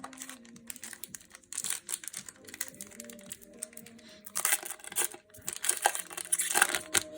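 Plastic trading-card booster pack wrapper crinkling and being torn open, with the loudest crinkling in the second half. Soft background music underneath.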